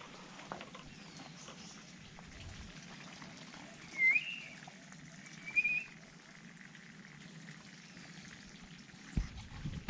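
Two short bird calls in tropical forest: a wavering whistled note about four seconds in, then a brief trill about a second and a half later. Under them runs a faint, steady crackling hiss.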